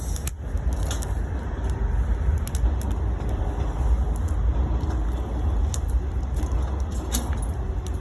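Wood bonfire crackling, with sharp pops every second or so, over a steady low rumble.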